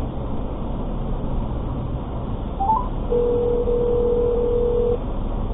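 Quick rising three-note electronic chime about two and a half seconds in, then a steady beep of one pitch lasting nearly two seconds, over the steady low rumble of a vehicle on the move.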